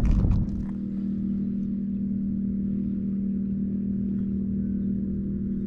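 An engine running steadily at an even pitch, a constant low hum that neither rises nor falls.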